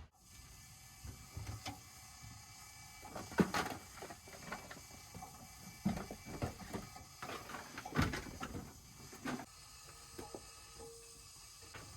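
Faint, scattered clicks, knocks and light clatter of things being handled in a small room, with a few sharper knocks spread through it.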